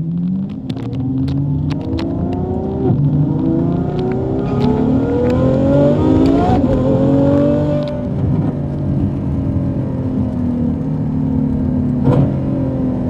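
Ferrari F12's V12 through an iPE valved exhaust with the valves open, pulling hard: the engine note climbs in pitch through several rising sweeps with drops between them at the upshifts, then settles into a steadier, slowly falling tone at cruise.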